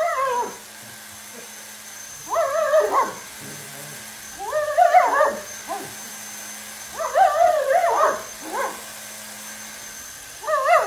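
German shepherd whining and yipping in short, wavering bouts every two to three seconds, shying away from an upright vacuum cleaner, over a faint steady hum.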